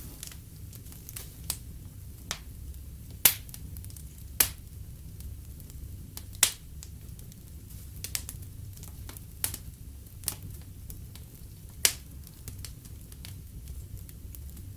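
Fireplace fire crackling, with irregular sharp pops (the loudest about 3, 4.5, 6.5 and 12 seconds in) over a steady low rumble of burning.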